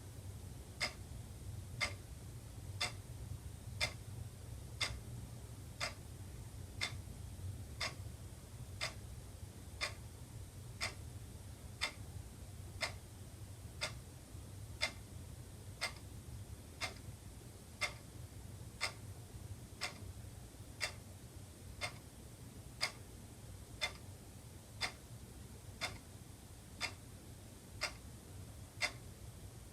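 Wall clock ticking steadily, one tick a second, over a faint steady low hum.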